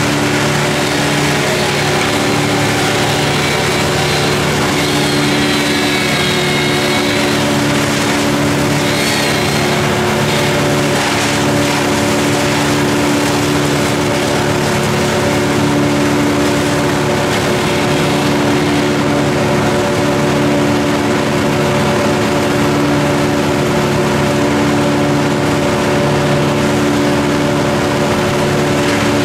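An engine running steadily at constant speed, with a loud even hum that neither rises nor falls.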